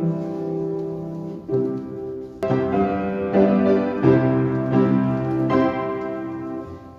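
Piano music: sustained chords and melody notes, each new note or chord struck roughly every half second to a second.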